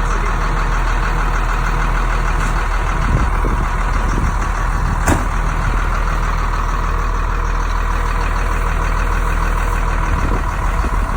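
Caterpillar 3116 inline-six diesel in a 1996 GMC Topkick running steadily at idle after a cold start, with one sharp click about five seconds in.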